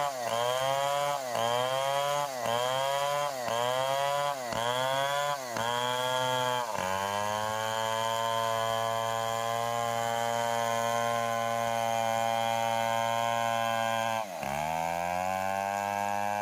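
Stihl 070 single-cylinder two-stroke chainsaw engine running at high revs. For the first several seconds its pitch sags and recovers about once a second, then it holds a steady high note. It sags once more briefly near the end.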